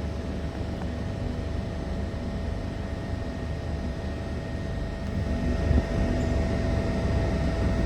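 A train at the platform with a low rumble and a steady hum, growing louder about five seconds in.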